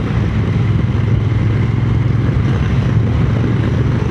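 Triumph Speed Twin 900's parallel-twin engine running steadily while riding at an even pace, under heavy wind noise on the microphone.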